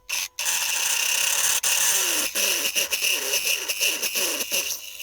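A 10 mm twist drill cutting a hole into aluminium stock in the machine's spindle: a steady hissing, grinding cut with some sweeping squeals, starting just after the beginning and stopping shortly before the end.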